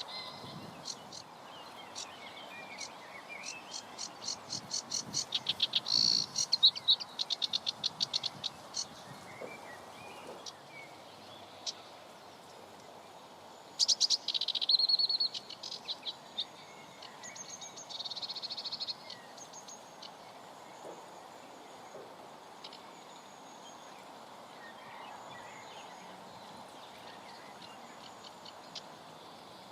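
Birds singing: a long trill of rapid repeated high notes that speeds up and grows louder, a short loud burst about halfway through, and a buzzier trill a few seconds later, over a steady hiss of wind on the microphone.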